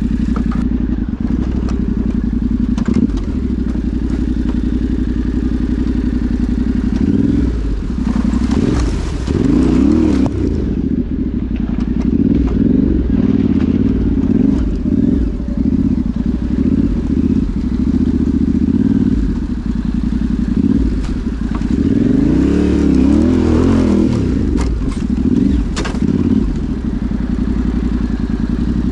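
Yamaha Ténéré 700 parallel-twin engine running under a rider, with the revs rising and falling twice, about a third of the way in and again near the three-quarter mark. Scattered knocks and clatter come from the bike over rough ground.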